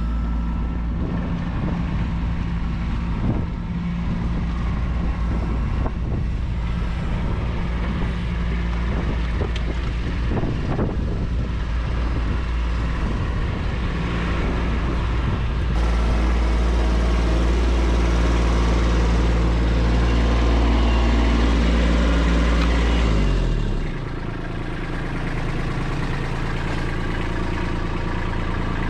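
Kubota B2601 compact tractor's three-cylinder diesel engine running steadily under work. It gets louder about halfway through, then the revs drop sharply near the end and it carries on at a lower speed.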